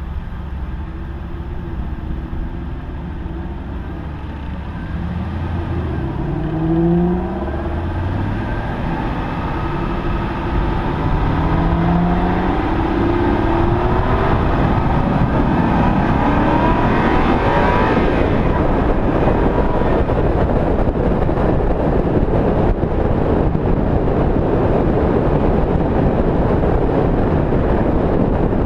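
Aston Martin sports car engine accelerating: the revs rise twice through the gears, about six and eleven seconds in. From about halfway on, loud wind and road noise on the bonnet-mounted microphone at speed drowns out the engine.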